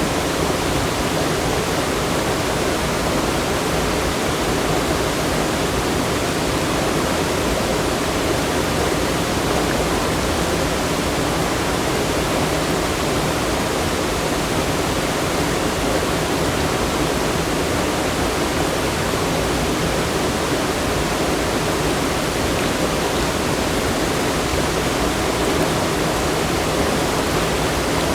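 Rushing water from a waterfall or fast stream, a loud steady roar with no breaks.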